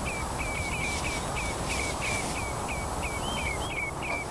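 A bird calling in a quick series of short, high chirps at one pitch, about three a second, over a low outdoor rumble.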